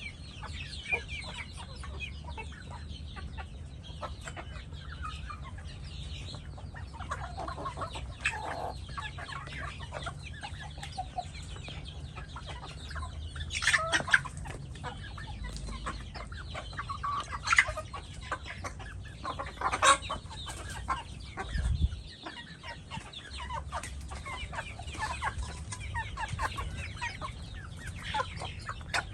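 Chickens clucking and calling repeatedly, with three louder calls partway through, over a steady low rumble.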